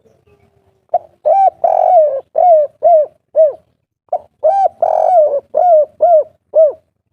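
Spotted dove cooing its 'kuk 3' song twice. Each phrase is a short note, then a longer coo, then three short arched 'kuk' notes.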